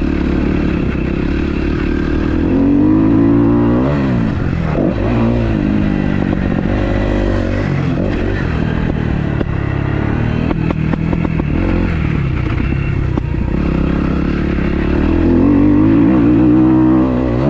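2012 Kawasaki KX250F's freshly rebuilt, fuel-injected four-stroke single-cylinder engine being ridden hard, revving up and down with the throttle; the pitch climbs about three seconds in and drops off sharply, then climbs again near the end.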